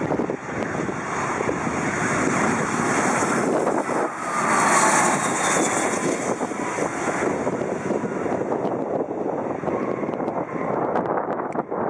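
Airbus A320-231's IAE V2500 turbofan engines as the airliner passes low on its landing, a loud jet rush with a whine that falls in pitch about halfway through, where it is loudest, then fades.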